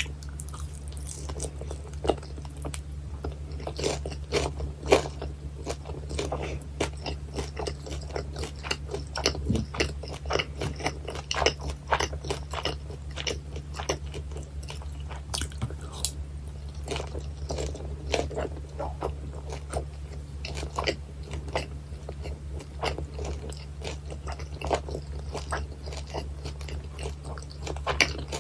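Close-miked chewing and biting of crispy battered fried pork (guo bao rou), with a steady stream of crunchy crackles and wet chewing sounds over a low steady hum.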